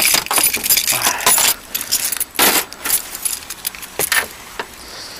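Handling noises: a jumble of clicks, rattles and rustles, with a loud burst about two and a half seconds in and a few sharp knocks near the end.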